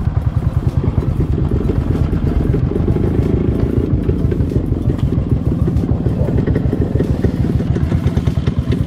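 Motorcycle engine running steadily, a fast, even stream of low firing pulses.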